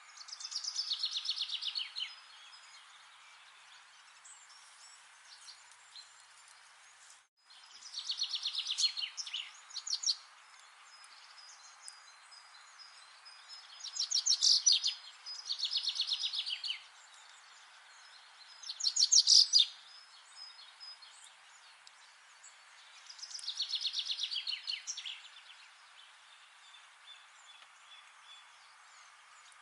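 A songbird singing: about six rapid, trilled phrases, each falling in pitch and lasting one to two seconds, spaced several seconds apart over a steady background hiss. The sound drops out for an instant about seven seconds in.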